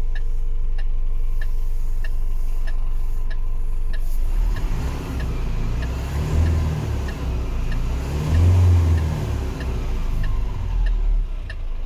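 Renault D 220 truck's diesel engine idling steadily with a regular tick about twice a second. About four seconds in, the engine is revved up and let fall back several times, the strongest revs about halfway through and again near the end.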